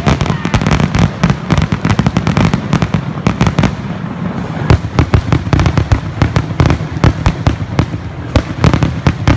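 Fireworks display going off: a dense, unbroken run of bangs and crackles, several a second, over a low rumble.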